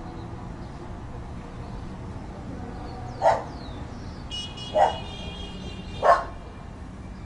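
A dog barking three times, about a second and a half apart, over steady background noise. A high thin tone sounds under the second and third barks.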